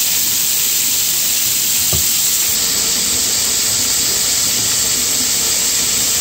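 Hamburger patty sizzling in oil in a hot frying pan, a steady hiss of frying fat.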